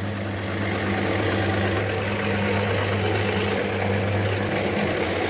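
A machine running steadily with a low, even hum, like an engine or motor at idle.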